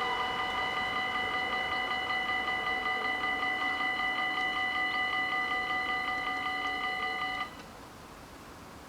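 Dutch level-crossing warning bells ringing with a fast, even ding, cutting off suddenly about seven and a half seconds in as the crossing clears after the train.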